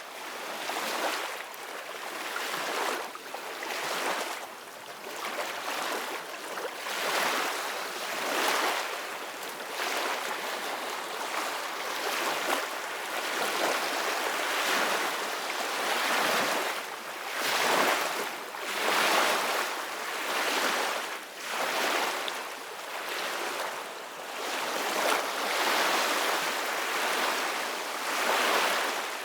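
Ocean surf: waves breaking and washing ashore one after another, swelling and ebbing every second or two.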